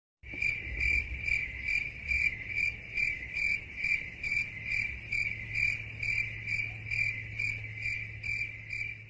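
Crickets chirping in an even rhythm, about two to three chirps a second, over a low steady hum. This is the stock 'awkward silence' cricket sound effect.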